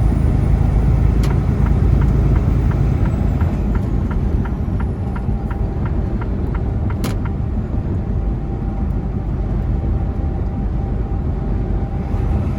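Semi truck running at highway speed, heard from inside the cab: a steady low rumble of engine and road noise. About three seconds in comes a quick run of evenly spaced light ticks, roughly three to four a second, ending in a sharper click a few seconds later.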